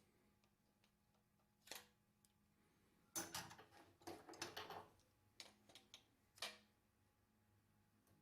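Faint clicks and scrapes of a screwdriver working the metal head bushings out of a Columbia automatic taper's head. There is a single knock about two seconds in, then a busier run of clicking and scraping through the middle, with a few last clicks after it.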